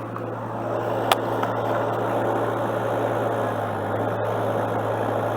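Excavator engine running steadily at idle, with a single sharp click about a second in.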